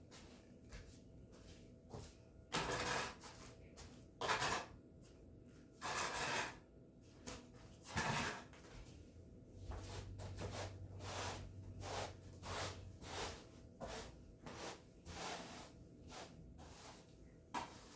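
Repeated sweeping strokes across the floor. A few longer strokes come about two seconds apart, then quicker, shorter strokes follow from about halfway.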